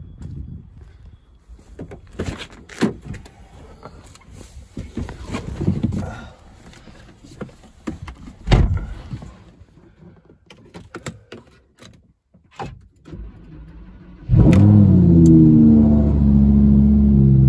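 Lamborghini Huracán's 5.2-litre V10 starting up: it catches about fourteen seconds in with a loud flare of revs that falls back into a steady idle. Before that, thumps and rustling as someone climbs into the car.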